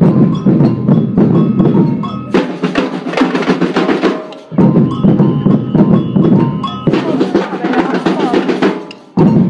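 Live drum band playing loudly, bass and snare drums beating a rhythm with a tune over it. The sound breaks off and starts again twice, about two and four and a half seconds in.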